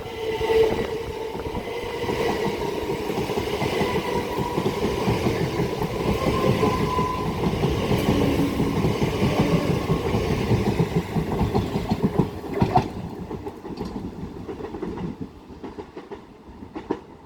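Pair of Class 375 Electrostar electric multiple units running through the station: a steady motor whine over a dense rumble and clatter of wheels on the rails. The sound fades away after about thirteen seconds as the train moves off.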